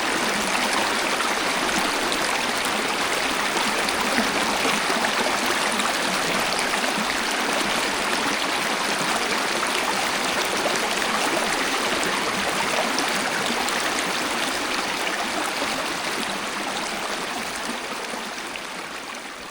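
Waterfall water rushing steadily, an even hiss of falling and flowing water, fading out over the last few seconds.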